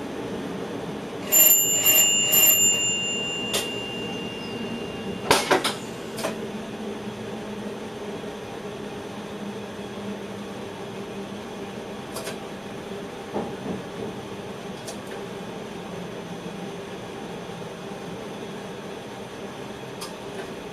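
Steady running hum inside a moving electric train's driver's cab. About a second in, a bell rings three or four quick strikes, and its tone fades over a couple of seconds. A cluster of sharp clicks follows a few seconds later, then scattered light clicks.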